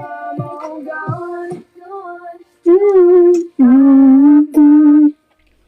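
Music with a woman singing. A short melodic phrase over a low beat gives way to three loud, long held notes, the last two lower than the first. The singing cuts off a little after five seconds in.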